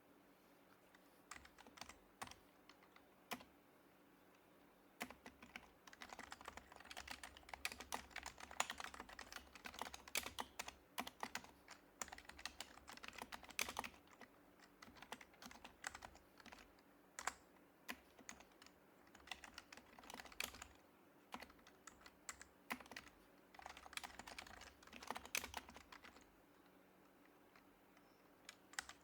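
Typing on a Happy Hacking Keyboard Professional HYBRID Type-S, with its quiet Topre capacitive keys. A few scattered keystrokes come first, then from about five seconds in, quick runs of keystrokes broken by short pauses.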